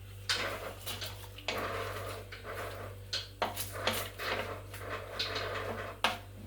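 Kitchen handling noise: pots, utensils and ingredients being moved about, with several longer scraping or rustling stretches and a couple of sharp clinks, over a steady low electrical hum.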